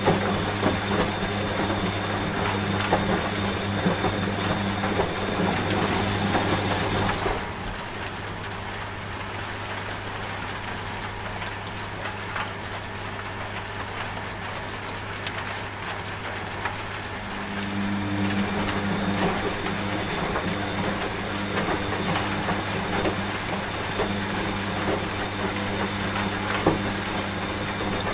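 Steady rain pattering, mixed with the low, steady hum of a running washing machine. About seven seconds in the sound drops in level, and the hum grows stronger again a little past halfway.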